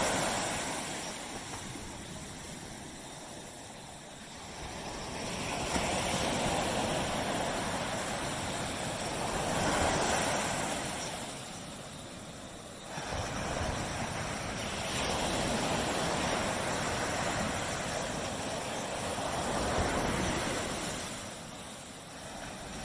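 Ocean surf on a beach: waves breaking and washing up the shore, the rush of water swelling and ebbing with quieter lulls between waves. One wave comes in abruptly about two-thirds of the way through.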